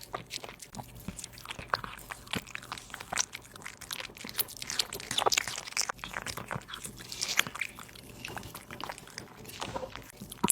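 A cat chewing and crunching raw meat and bone close to the microphone, with quick, irregular bites and crunches throughout.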